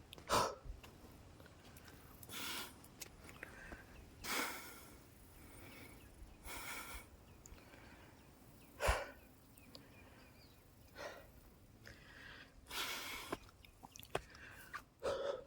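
A man breathing hard from climbing a steep, rough hill path, one loud breath about every two seconds. There is a single sharper thump about nine seconds in.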